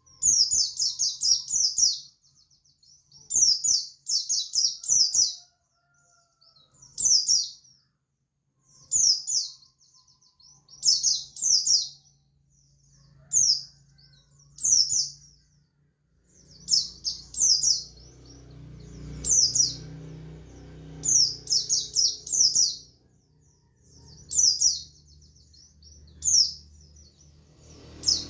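Buxtoni white-eye (pleci buxtoni) singing in the 'ngalas' style: short bursts of rapid high twittering notes, repeated every second or two with brief pauses. A faint low background rumble comes in about halfway.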